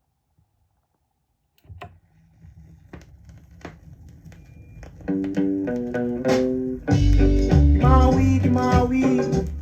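Opening of a 1960s-70s reggae single: quiet at first, then a sparse instrumental intro that comes in about a second and a half in and builds. Guitar and bass notes enter about five seconds in, and the full band with heavy bass follows about seven seconds in.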